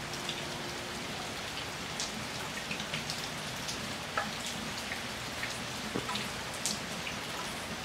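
Steady rain falling, with occasional louder drops ticking through the hiss.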